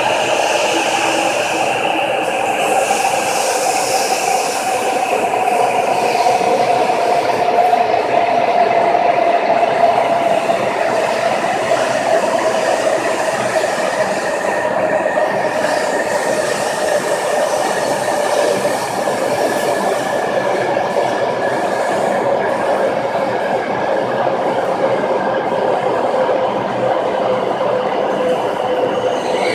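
E7 series Shinkansen train pulling into the platform and slowing, its cars rushing past with a steady whine that falls slowly in pitch as it decelerates.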